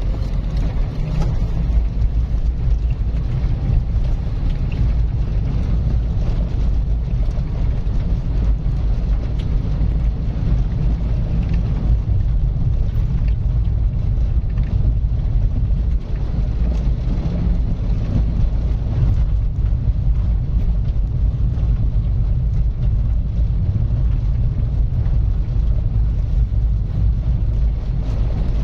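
Car driving steadily along a road: a constant low rumble of engine and tyre noise, with no big changes in speed.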